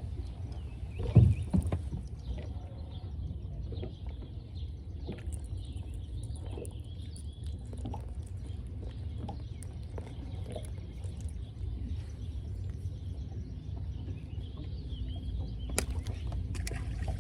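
Birds calling faintly over a steady low rumble, with one loud thump about a second in.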